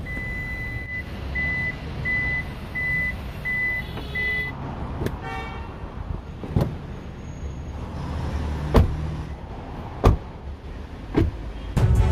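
Car's electronic warning chime beeping at one steady high pitch, about once every 0.7 s, stopping about four and a half seconds in. After it come six sharp clicks and thumps over a low rumble.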